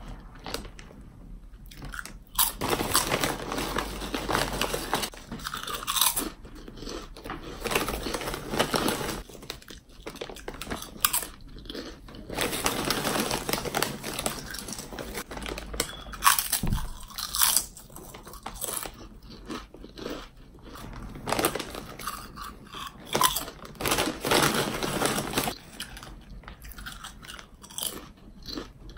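Close-up crunching and chewing of potato chips, in bursts of a few seconds with short pauses between mouthfuls.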